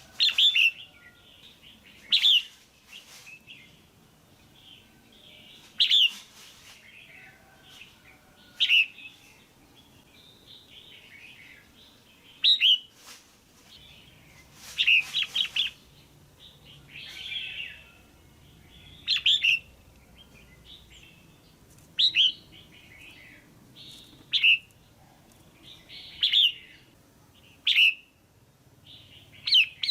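Female red-whiskered bulbul calling: short, loud chirping calls repeated every two to three seconds, some in quick runs of two or three.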